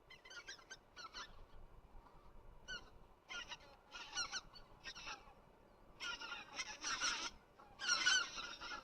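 A flock of migrating swans calling overhead: scattered short calls at first, thickening into a chorus of overlapping calls in the last few seconds.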